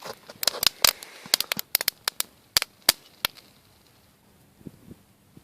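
Dry twigs crackling as they catch in a freshly lit campfire: a quick run of sharp snaps for about three seconds, then only a few faint ones.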